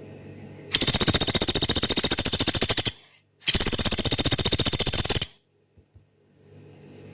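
Pelatuk beras (a pygmy woodpecker) giving two long, rough, rapid rattling trills of about two seconds each, with a short gap between them, over a faint steady background hum.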